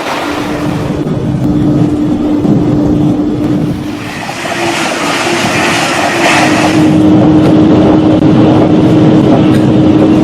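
N-gauge model train running on the layout track: a steady motor whine over a rolling rattle. It dips briefly about four seconds in, then comes back louder.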